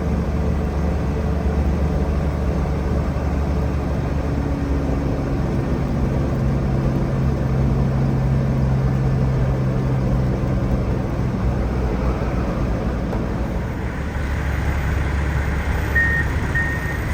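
Heavy diesel engine running steadily. Near the end a backup alarm starts beeping about twice a second.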